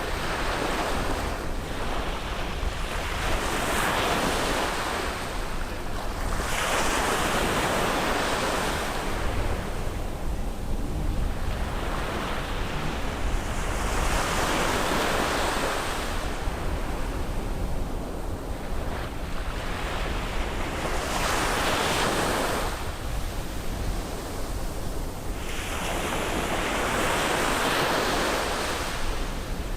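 Ocean waves breaking and washing on a beach, swelling and falling back every few seconds, with wind noise on the microphone.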